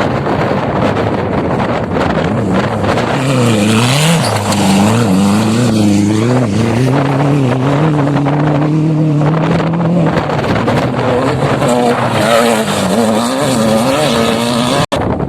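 An off-road vehicle's engine revving up and down repeatedly, with heavy wind noise on the microphone.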